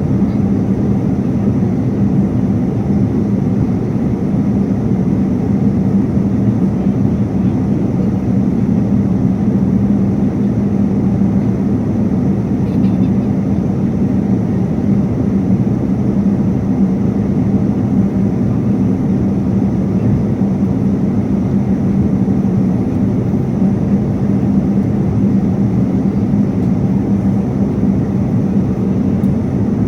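Jet airliner cabin noise in cruise flight: a steady engine and airflow drone with a low hum underneath, unchanging throughout.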